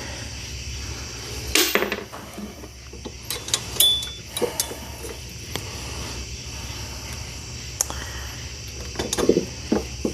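Scattered light clicks and knocks of small parts being handled and fitted by hand, over a steady low hum. A brief noisy rush comes about one and a half seconds in, and the sharpest click near four seconds.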